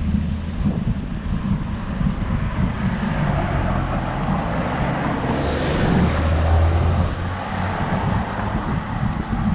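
Wind rumbling on the microphone of a road bike climbing a hill, with a motor vehicle passing close by: its noise swells from about three seconds in, is loudest around six seconds, and fades.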